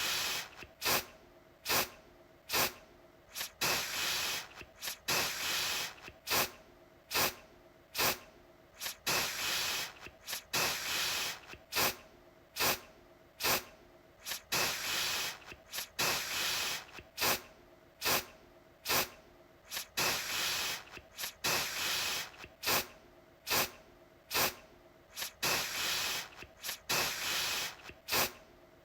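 Aerosol deodorant can spraying in repeated hissing bursts: short sharp puffs mixed with longer sprays of up to about a second, one after another roughly every second.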